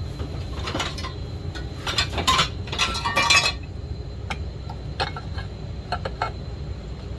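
Small metal parts and tools clinking and rattling as they are handled, in a few quick clusters over the first three and a half seconds, then single scattered clicks, over a steady low rumble.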